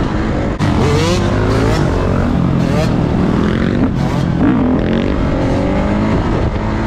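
Dirt bike engines revving and running, the pitch climbing and falling again several times, with a sharp rise about half a second in.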